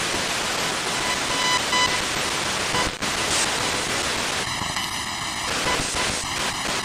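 SBox spirit box sweeping through radio frequencies: a steady hiss of radio static. It drops out briefly about three seconds in, a buzzy tone sounds for about a second midway, and near the end the sound chops quickly at about four pulses a second as the sweep steps through stations.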